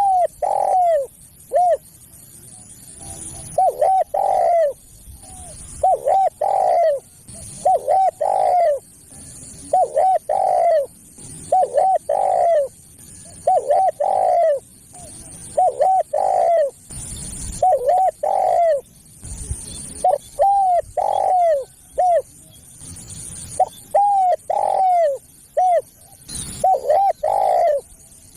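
Spotted dove cooing: a phrase of a few short coos ending in a longer, arched coo, repeated about every two seconds.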